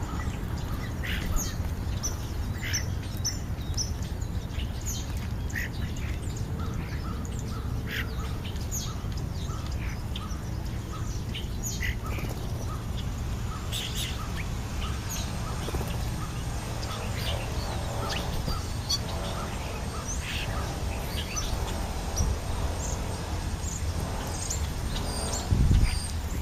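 European starlings calling: many short whistles and chirps scattered through, with some harsher chatter in the middle, over a steady low rumble.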